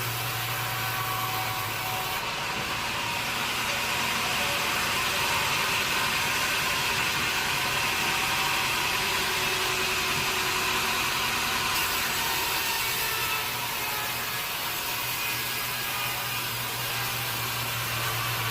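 Sawmill saw cutting through a log. The machine's steady hum gives way, from about two seconds in, to a louder hissing cut through the wood. The cut eases off about two-thirds of the way through and the steady hum returns.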